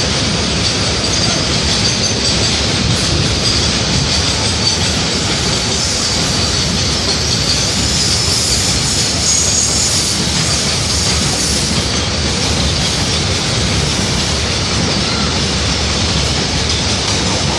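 Indian Railways double-decker passenger train running on the track: a steady, loud rumble of wheels on rails with a faint high-pitched squeal over it.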